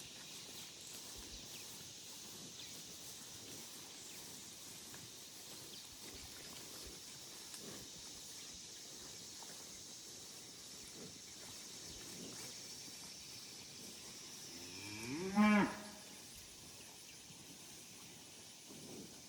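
A beef cow moos once, a short call that rises in pitch, about fifteen seconds in; otherwise only a faint steady high-pitched background.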